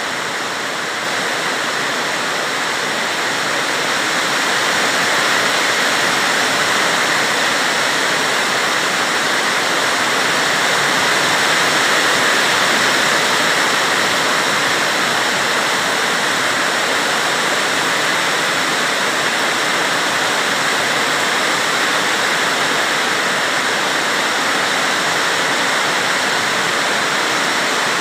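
Heavy rain pouring down steadily as a dense, even hiss that grows a little louder in the first few seconds.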